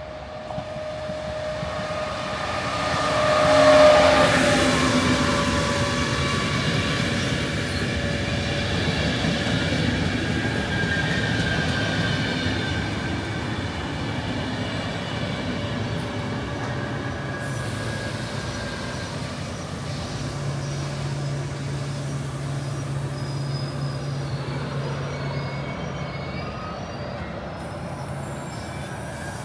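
Trenord regional electric train pulling into the station and rolling past along the platform, a steady rumble of wheels and carriages that is loudest about four seconds in. Faint high wheel or brake squeals come near the end over a low steady hum.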